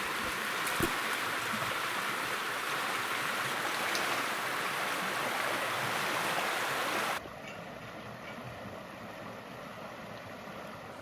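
Rushing water of river rapids, a loud steady rush that drops suddenly to a fainter steady rush about seven seconds in.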